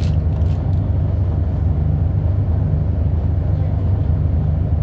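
Scania L94UB city bus's diesel engine running with a steady low drone, and a few light clicks or rattles in the first second.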